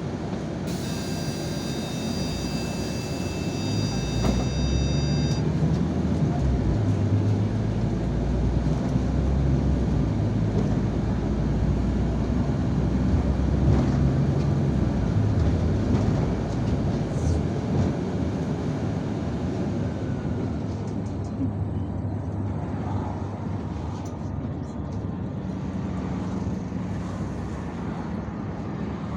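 Yutong ZK 6128 HG city bus on the move, with engine drone and road noise swelling as it gathers speed through the middle and easing off in the last third. A steady high electronic beep sounds for about four seconds near the start, over a brief hiss.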